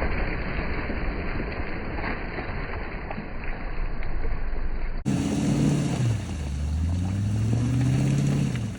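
Range Rover being driven off-road: a steady rush of engine and driving noise, then, after a cut about five seconds in, its engine note drops and rises again as the throttle is worked.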